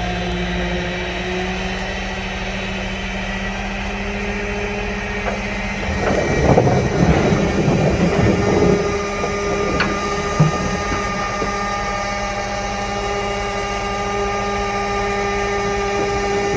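Engine of an old 1940s GMC logging truck running steadily, with a louder, rougher, noisier stretch about six to nine seconds in.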